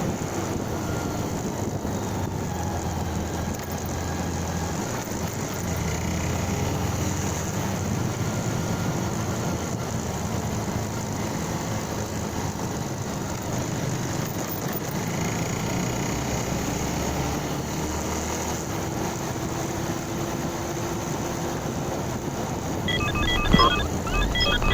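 Motorcycle running steadily on the road, its engine drone mixed with wind and road noise. Near the end comes a short run of beeping tones.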